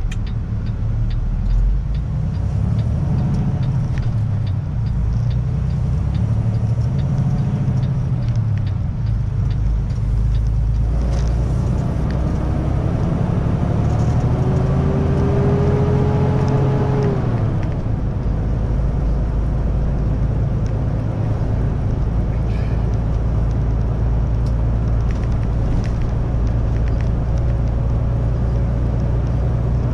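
Semi truck's diesel engine running at low speed with a steady drone; about eleven seconds in its pitch rises for several seconds as it accelerates, then drops back to a steady low run.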